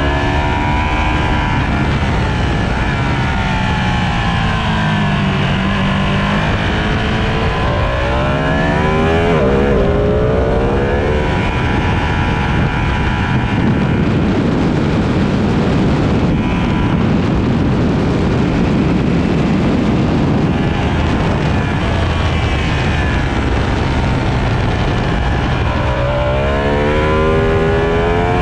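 Sport motorcycle engine lapping a race circuit: the revs fall through the first few seconds, then climb steeply through quick gear changes under hard acceleration, settle into a steady high-speed run, and climb steeply again near the end.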